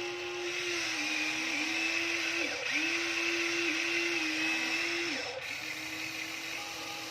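Huina RC dump truck's small electric motor running with a steady whine, its pitch dipping briefly about a second in, near the middle and again about five seconds in, louder between the second and third dips.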